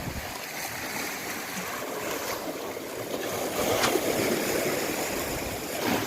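Rough sea surf rushing and breaking, swelling louder a little past halfway through, with a single sharp tick about four seconds in.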